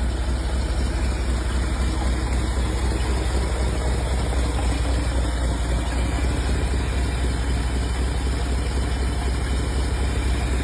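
Ford FE V8 engine of a 1967 Ford F-250 pickup idling steadily, recorded close with a heavy low hum.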